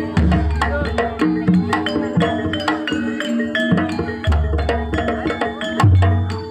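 Javanese gamelan dance accompaniment: rapid struck metallophone notes ringing over hand-drum strokes, with three deep drum booms, one at the start, one about two-thirds through and one near the end.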